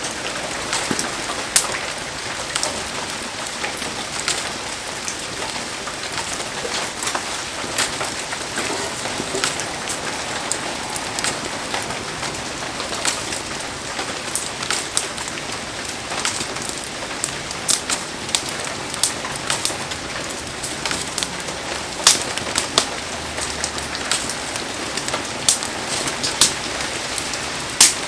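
Heavy rain falling steadily, with frequent sharp pops and taps scattered through it, more of them near the end.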